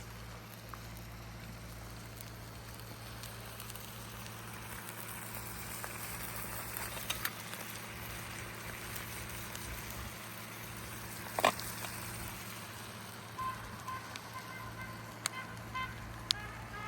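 Wood campfire crackling, a steady hiss with scattered sharp pops and one loud snap about eleven seconds in. Near the end there is a quick run of short high chirps.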